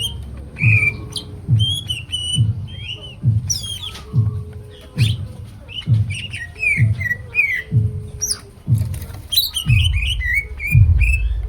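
Cucak ijo (green leafbird) singing steadily, a quick, varied run of short whistled chirps and slurred notes. A steady low beat, a little faster than once a second, runs underneath.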